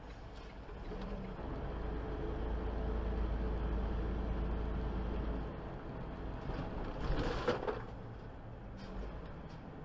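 Steady engine and road noise from a vehicle on the move, with a brief louder rush of noise about seven seconds in.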